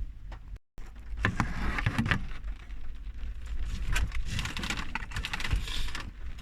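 Irregular clicks and taps, like things being handled inside a car, over a steady low rumble. The sound cuts out completely for a moment just under a second in.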